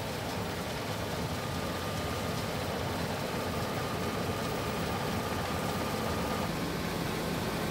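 Combine harvester running steadily: a low engine hum under a broad rushing noise.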